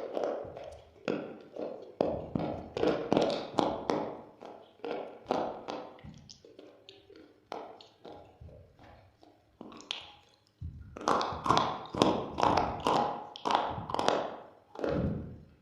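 Close-miked crunching of something hard and brittle being bitten and chewed: rapid irregular cracks that thin out and soften for a few seconds mid-way, then come back loud and dense.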